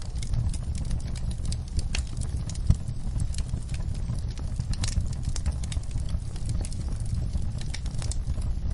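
Wood fire in a fireplace crackling, with irregular sharp pops over a steady low rumble, and one louder knock a little under three seconds in.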